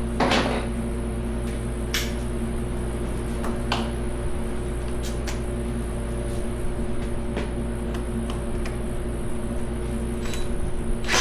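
A steady machine hum, fan-like, with a handful of short, light metallic clicks and taps scattered through it, the sound of tools and parts being handled during an engine teardown.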